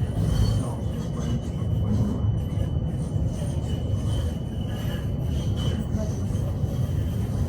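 Inside a PKTS 71-931M Vityaz-M low-floor tram under way: a steady low rumble of the wheels on the rails, with a thin steady high tone over it.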